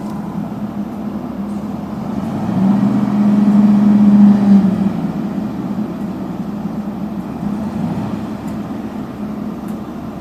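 Vehicle engine running with a steady low hum, growing louder about two and a half seconds in and easing off again around five seconds in.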